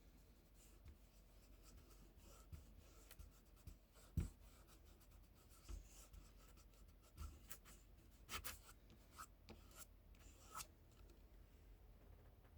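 Faint brush strokes rubbing and scratching across a painting surface, with scattered light taps and one dull thump about four seconds in.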